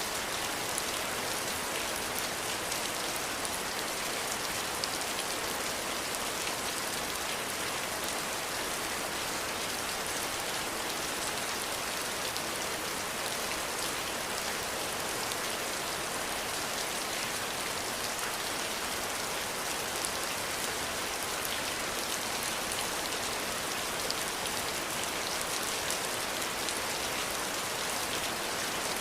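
Steady rain falling and pattering on surfaces, an even hiss with fine scattered drop ticks and no thunder.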